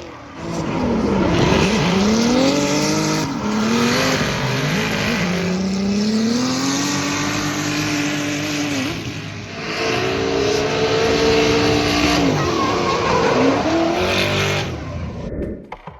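Twin-turbo GM LS V8 in a Toyota Supra MK4 drift car, revving up and down repeatedly through a drift, with tyres squealing throughout. The sound cuts off sharply just before the end.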